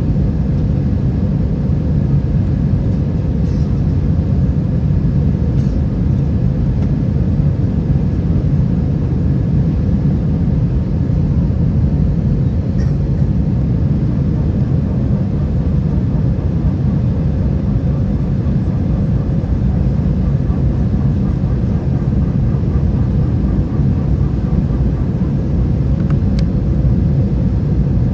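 Steady low rumble inside the cabin of an Airbus A320 with IAE V2533 engines: engine noise and airflow, heard unchanging throughout with a faint steady hum on top.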